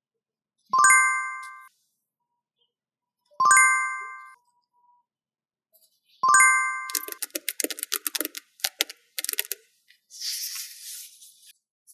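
Three bright chime sound effects, about three seconds apart, each ringing out for about a second. Then a run of rapid crackles and a short rustling hiss as paper sticker sheets are handled.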